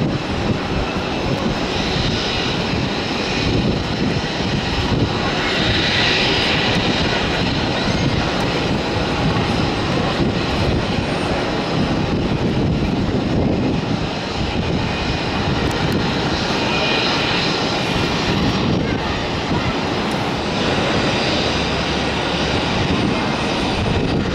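Jet airliner engine noise mixed with heavy wind buffeting on the microphone.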